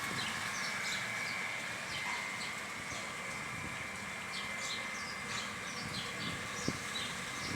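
Birds chirping: many short, quick calls one after another, over a steady high-pitched drone.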